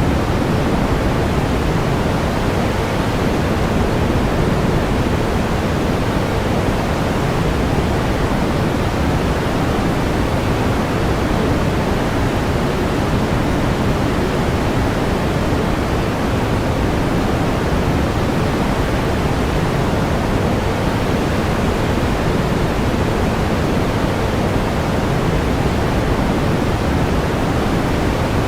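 Steady pink noise: an even, unchanging hiss, fuller in the bass and rolling off toward the treble.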